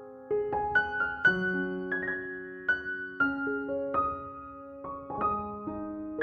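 Background piano music: a slow, gentle melody of single notes and chords, each struck note ringing on and fading.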